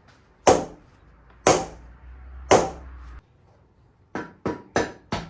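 Hammer blows on the intake manifold of a Chrysler 360 Magnum V8 to break it loose from the engine: three heavy strikes about a second apart, then a quicker run of four lighter blows near the end.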